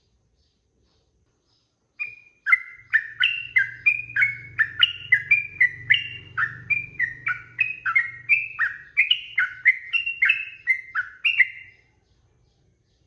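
Yellow-vented bulbul (trucukan) singing a long, fast run of short, liquid whistled notes, about three a second, starting about two seconds in and stopping shortly before the end.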